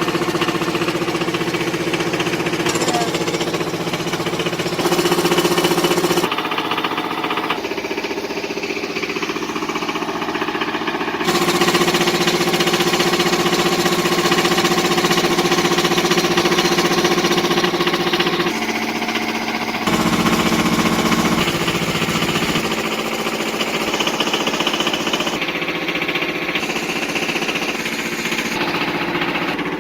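Tractor engine running steadily with a clattering, knocking edge, its pitch and level changing abruptly several times as it works the dirt.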